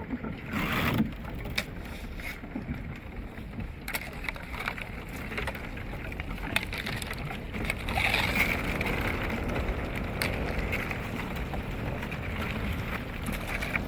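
Broken lake-ice chunks crunching and scraping against a canoe and paddle as it is pushed slowly through thick slushy ice, with many small clicks and knocks throughout.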